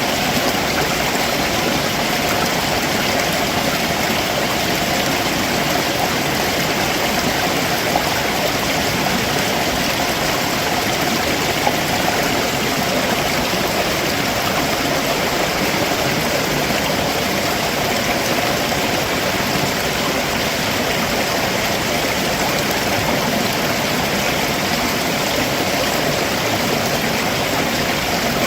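Stream water running over rocks below a waterfall, a steady, unbroken rush.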